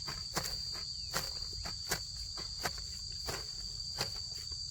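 Insects droning in a steady high buzz, with short sharp knocks repeating about every 0.7 seconds, like a hand tool striking during work.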